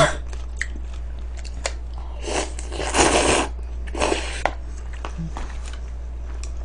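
Close-miked crunching bites and chewing of food, with two louder crunchy stretches about two and four seconds in and small mouth clicks between.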